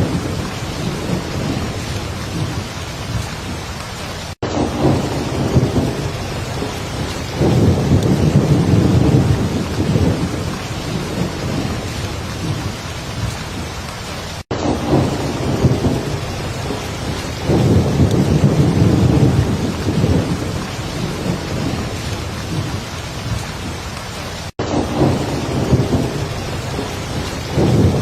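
Heavy rain falling steadily with low rolling thunder swelling and fading several times. The sound cuts out for an instant about every ten seconds.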